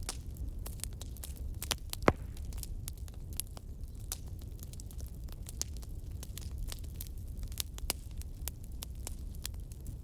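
Fireplace crackling: a steady run of irregular pops and snaps over a low rumble, with one sharper pop about two seconds in.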